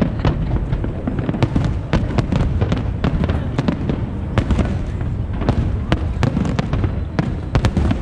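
Fireworks display: a rapid, dense run of sharp bangs and crackles, several a second, over a continuous low rumble of bursting shells.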